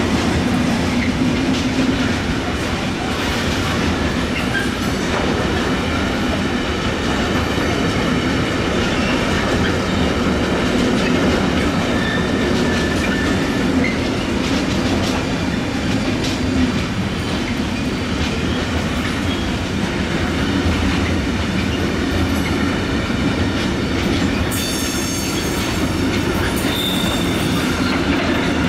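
Intermodal freight train hauled by a Siemens Vectron passing close by, its wheels running steadily on the rails. A high wheel squeal rises about three seconds before the end.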